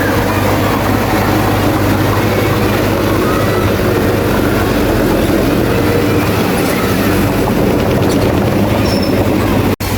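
Crawler bulldozer working: its diesel engine and steel tracks running steadily. The sound cuts out for an instant near the end.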